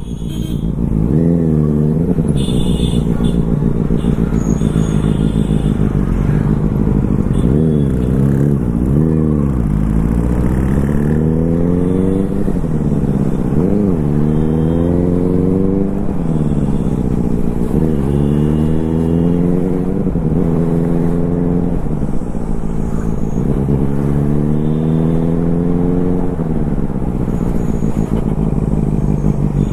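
Superbike engine running under way, its pitch climbing repeatedly as it accelerates and dropping back between gear changes, several times in a row.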